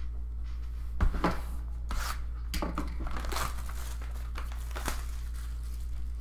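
Plastic card wrappers or sleeves crinkling and rustling in short bursts as trading cards are handled, over a steady low hum.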